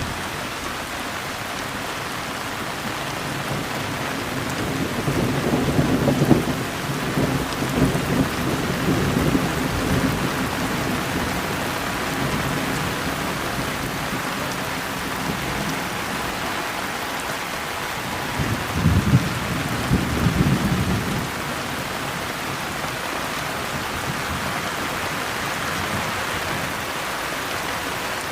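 Steady rain falling, with thunder rumbling twice: a longer roll about five seconds in and a shorter one near the twenty-second mark.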